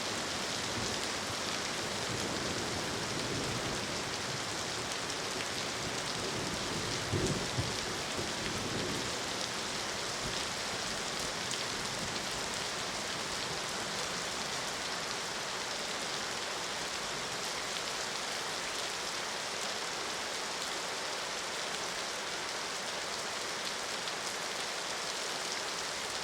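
Steady rain pouring down, with one short low rumble about seven seconds in.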